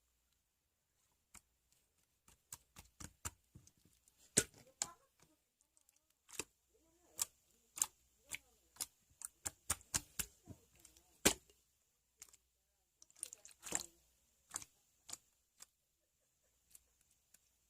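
Slime being squeezed and worked by hand, giving off irregular sharp clicks and pops, at times several a second, with short quiet pauses between handfuls.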